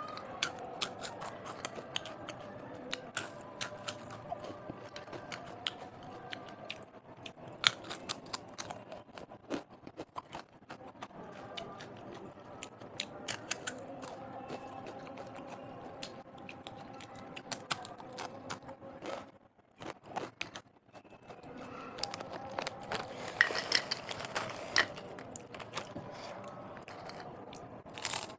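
Close-miked eating of snack food: irregular crunching and chewing with many sharp crackles, thickest a little past the middle, with a brief lull shortly before.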